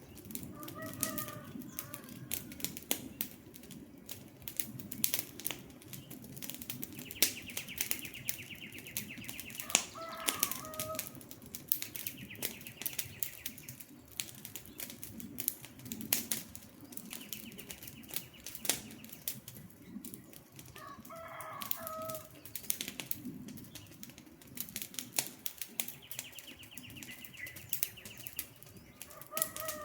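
Wood campfire crackling and popping in quick irregular snaps over a low steady rush of flame. Short bird calls come a few times, and a high buzzy trill lasting a second or two repeats about four times.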